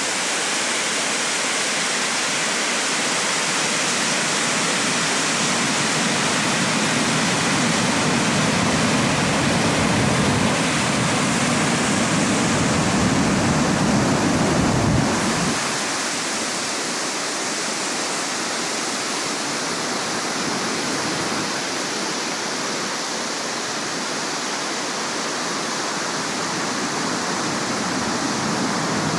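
A normally near-dry river in full flood after typhoon rain, its fast water rushing loudly and steadily. A deeper rumble in the first half drops away about halfway through.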